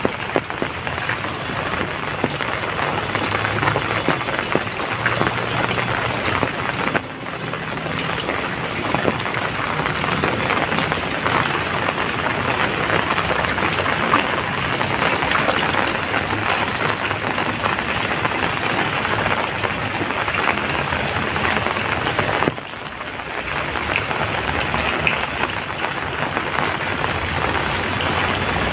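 Heavy rain falling steadily: a dense hiss of drops with many small patters. The sound dips suddenly and briefly about seven seconds in and again about twenty-two seconds in.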